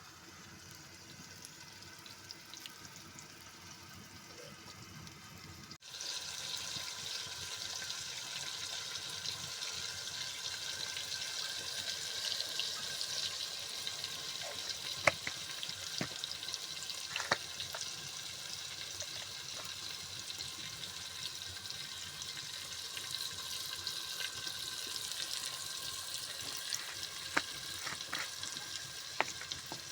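Food frying in hot oil in a pot over an open fire: a steady sizzle with scattered sharp pops, starting suddenly about six seconds in after a quieter stretch.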